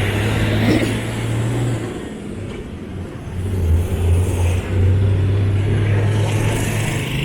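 A motor vehicle engine running close by, a steady low drone that eases off for about a second partway through and then comes back.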